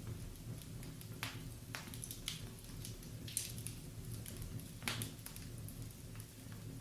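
Wood fire burning in a fireplace: scattered crackles and sharp pops over a steady low rumble of the flames.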